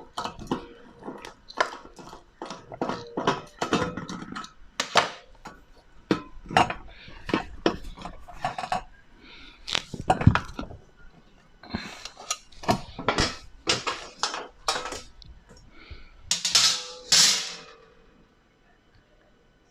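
Repeated metal clinks, clicks and knocks of tools and bolts being handled while a dishwasher is taken apart, with two longer, louder noises near the end.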